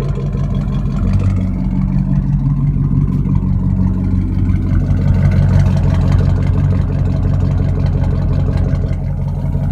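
2002 GMC Sierra 1500's 5.3L Vortec V8 idling steadily through straight Y-pipes, a loud, even exhaust drone while it warms up from a cold start.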